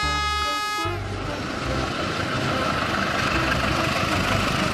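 Horn of a CC201 diesel-electric locomotive, a steady many-toned blast that cuts off about a second in. The locomotive and its passenger carriages then run past, a steady rumble and rattle of wheels on rails.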